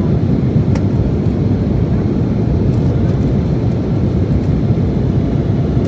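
Steady, loud cabin noise of an Embraer E175's two General Electric CF34-8E5 turbofan engines, a deep even rumble heard from a seat behind the wing, with one faint click about a second in.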